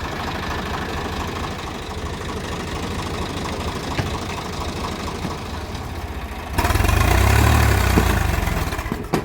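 Tractor diesel engine idling with a steady pulse. About six and a half seconds in it is revved hard for a couple of seconds, then drops back near the end.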